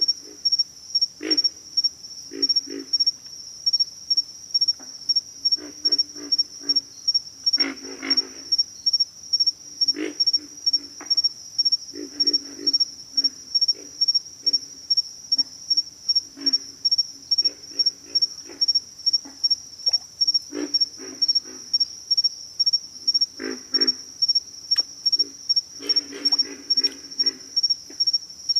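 Pig frogs grunting in short, low, pig-like clusters every few seconds. A chorus of insects pulses steadily in a high trill behind them, at about three pulses a second.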